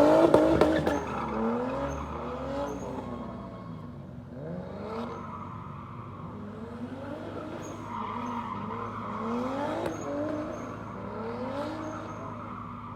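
A drift car's engine revving up and dropping again and again, about once a second, with tyre squeal under it. It is loudest at the start, then runs on more evenly.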